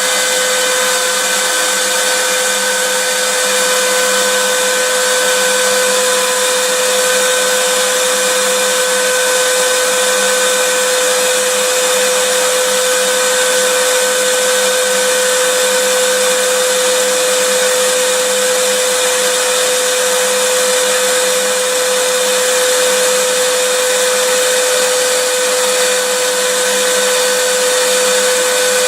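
Vacuum cleaner running steadily: an even rush of air with a constant motor whine, unchanging throughout.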